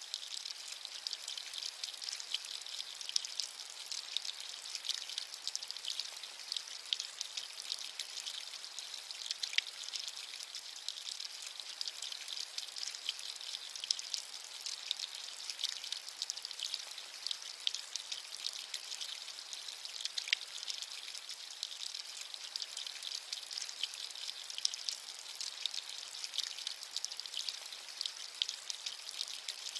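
Steady rain with many separate drops pattering, a high, even hiss without thunder or low rumble.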